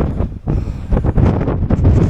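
Strong gusty wind buffeting the microphone, a loud low rumble that dips briefly just before half a second in.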